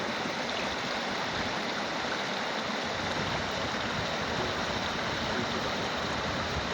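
River water flowing and rushing: a steady, even sound of running water.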